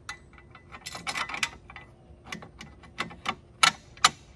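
Metal parts of a post-hole digger clinking and knocking as the blades, bolt and washers are fitted back together: an irregular run of sharp clicks, with two louder knocks near the end.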